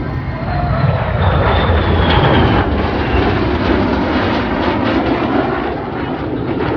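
Saab 340 hybrid test-bed's twin turboprop engines and propellers as the aircraft flies past, a dense steady noise that swells about a second in and peaks around two seconds, with a faint falling whine.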